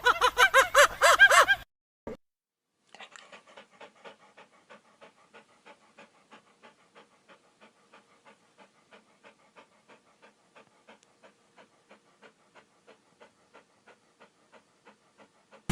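Loud repeated honking calls for about the first second and a half, then a much quieter animal panting rapidly and evenly, about four breaths a second, until the end.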